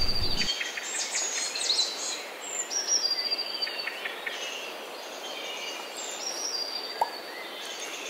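Birds calling: repeated high whistled notes that slide downward, with short chirps and chatter between them. A single short click about seven seconds in.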